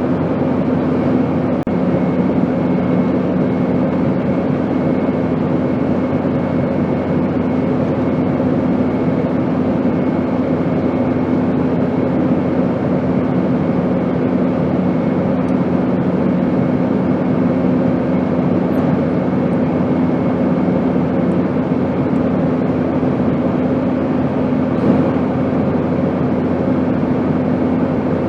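Airplane noise: a steady, even drone with a few held hums running through it, one lower hum fading out about three-quarters of the way through.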